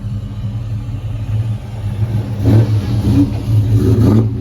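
Car engine running steadily, revved briefly twice: about halfway through and again near the end.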